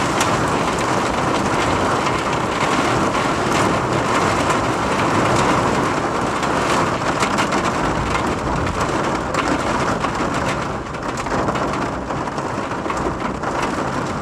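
Heavy rain in a squall: a steady loud rush of rain peppered with countless fine drop ticks, with strong wind and rumble underneath.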